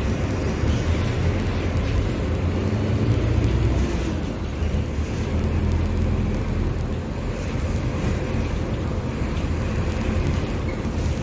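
Mercedes-Benz OF-1721 Bluetec 5 bus's diesel engine running under way. Its pitch climbs as it pulls from about two seconds in, eases off around four and a half seconds, then climbs again.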